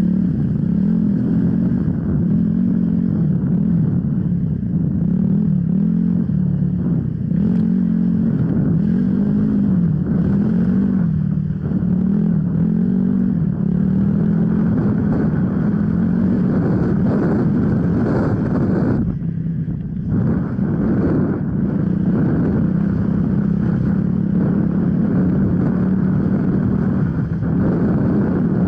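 Off-road enduro motorcycle engine running hard, its pitch rising and falling as the throttle opens and closes, with a brief easing off about two-thirds of the way through.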